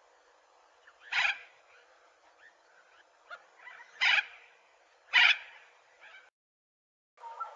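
Three short, harsh bird calls, spaced a few seconds apart, over a faint background. The sound cuts out completely about six seconds in.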